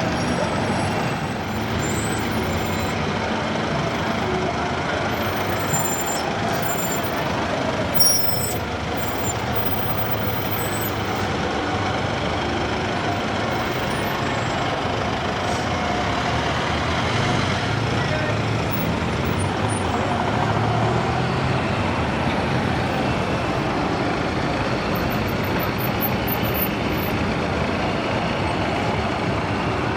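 Steady street noise of police vans and other vehicles driving past, engines and tyres rumbling without a break, with one short sharp knock about eight seconds in.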